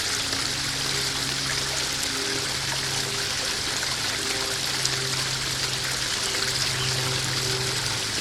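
A small garden waterfall spilling into a koi pond, with a steady, unbroken sound of splashing and trickling water.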